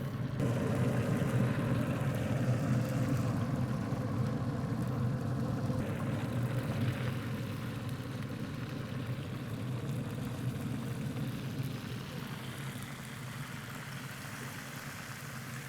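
Steady low mechanical hum, like a small motor or engine running, easing slightly quieter toward the end.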